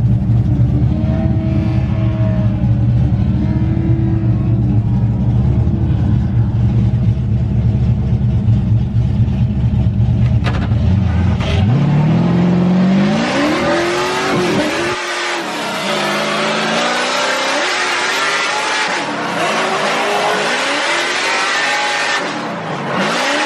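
Drift car engine droning steadily, then revving hard about twelve seconds in. From there its pitch swings up and down over loud tyre squeal as the car drifts.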